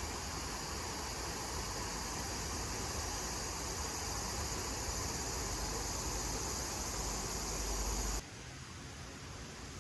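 Steady outdoor insect chorus, a high continuous chirring, over a low rumble; about eight seconds in it cuts off suddenly to a quieter background.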